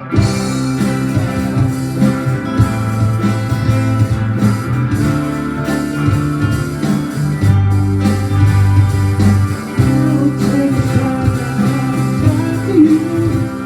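A band's instrumental intro: guitar playing over sustained low bass notes, before the singing begins.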